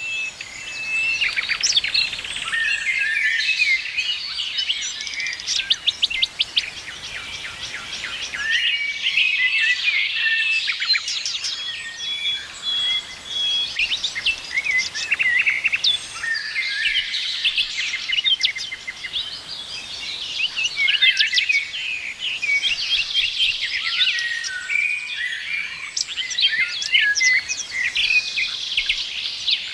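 Several songbirds singing and chirping together, a dense chorus of quick trills and short high whistled notes.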